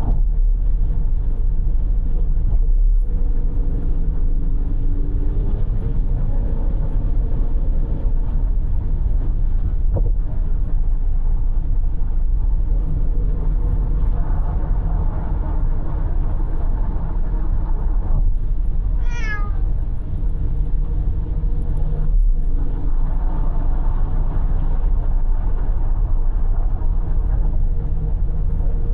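Steady road and engine noise from a car travelling on an expressway, heard from inside the car, with a cat meowing once, briefly, about two-thirds of the way through.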